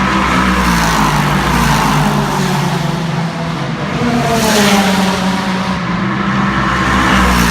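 Endurance race cars passing at speed, engines at high revs with rising pitch as they accelerate; one car goes by close about four and a half seconds in.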